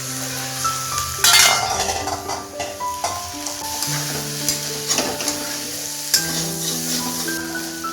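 Food sizzling in a hot pan while a utensil stirs and scrapes it, with the loudest scrape a little over a second in. Background music with long held notes plays throughout.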